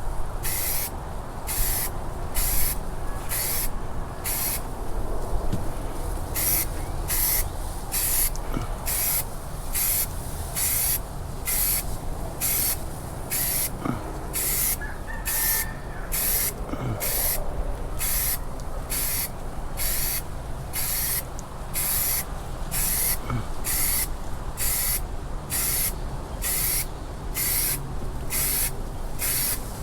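Paint sprayer hissing out primer in short, evenly repeated bursts, about one and a half a second, with a short lull about five seconds in, over a steady low rumble.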